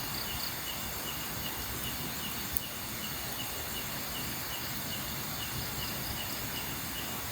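Night insects chirping, a short cricket-like chirp repeating about three times a second, over a steady hiss. One faint click about two and a half seconds in.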